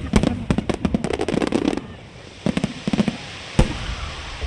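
Aerial fireworks going off in a rapid volley of sharp bangs for the first couple of seconds, then a short lull, a few scattered reports, and one louder bang past the middle.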